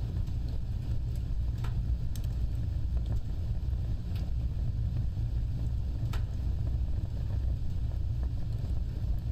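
Wood fire burning with a steady low rumble of flames and occasional sharp crackles and pops, a few in the span of several seconds.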